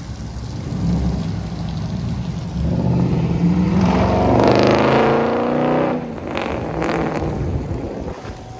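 5.7 Hemi V8 engine running with a low rumble, then revving up: its pitch climbs for a few seconds and drops away about six seconds in.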